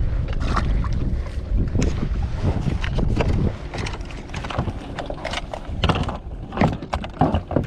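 Wind rumbling on the microphone of a kayak, with a run of short knocks and clatters from handling gear and a just-landed fish on the kayak. The knocks are busiest in the second half.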